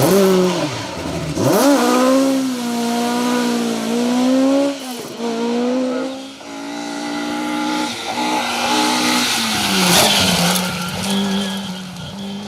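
Ford Escort Mk2 rally car engine revving hard at full stage pace: the pitch shoots up twice in the first two seconds, holds high, then drops and climbs again through several gear changes and lifts. About ten seconds in there is a sudden rush of noise.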